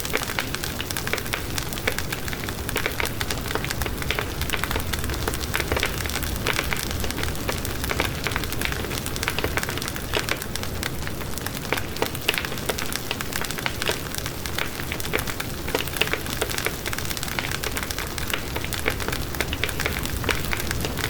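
Wood fire burning steadily in a fireplace, a low rumble of flame under many quick, irregular crackles and pops.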